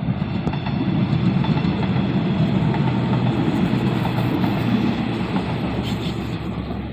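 Diesel railcar express train passing at close range: its underfloor engines and its wheels on the track make a steady, loud, low noise that eases a little near the end as the cars go by.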